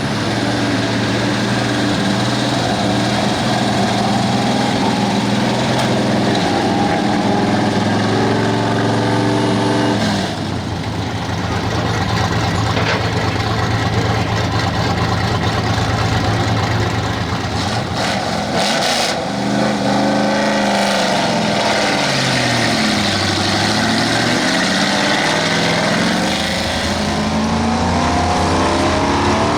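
Gasoline engine of a street stock pulling truck held at high revs under load, with a brief dip about ten seconds in. About two-thirds of the way through, the revs swing up and down, then climb again near the end.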